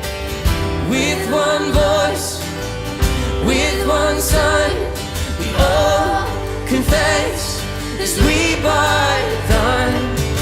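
Live worship music: a singer holds long, wavering notes in several phrases over a full band, with a strong beat hitting every second or so.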